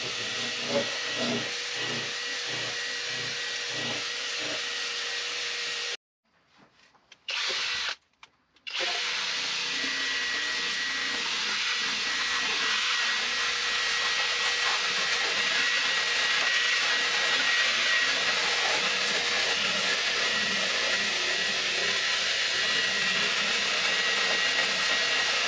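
Drill spinning a wire-wheel brush against the rusty steel cab floor of a truck, scrubbing off rust. It stops briefly twice about six to nine seconds in, then runs again, a little louder and higher in tone.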